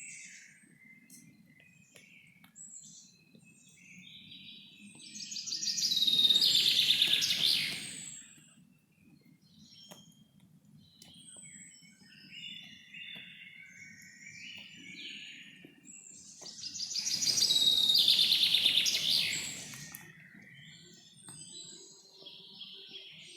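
Forest ambience with small birds chirping and calling, and a steady low background rumble. Two loud, fast trilling bird songs swell and fade, one about six seconds in and another near eighteen seconds.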